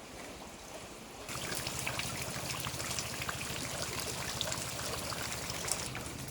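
Rain and running water, with many small drop splashes. It turns suddenly louder and denser about a second in, then keeps on steadily.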